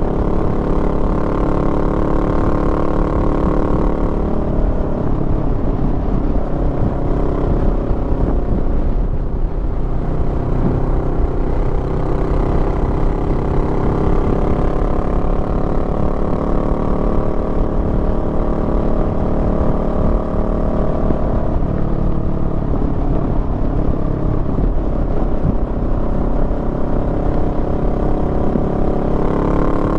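Honda Rebel 500's parallel-twin engine running under way. The engine note eases off about four seconds in, stays lower and less distinct for most of the stretch, and rises again near the end as the bike accelerates.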